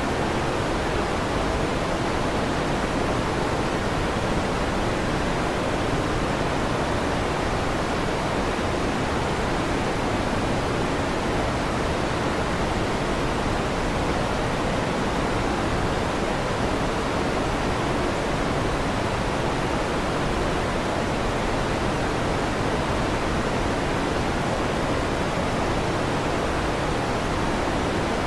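Electric fan running with a steady, unchanging whoosh.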